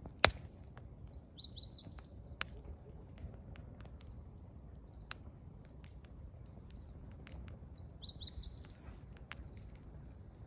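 Wood fire crackling with scattered sharp pops, the loudest a moment after the start. A small songbird sings the same short, high twittering phrase twice, about a second in and again about eight seconds in.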